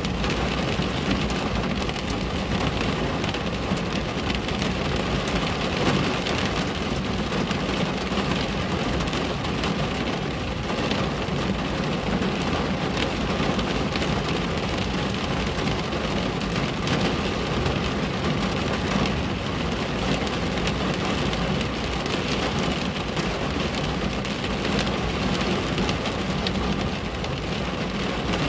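Steady rain on a window: an even hiss of rainfall dotted with many small drop ticks, with no change in strength.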